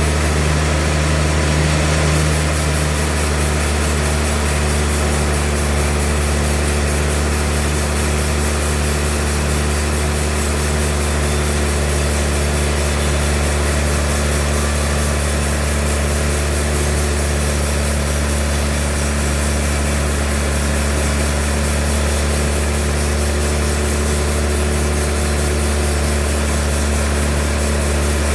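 Sawmill machinery running steadily, a constant engine drone with a strong low hum that holds unchanged throughout.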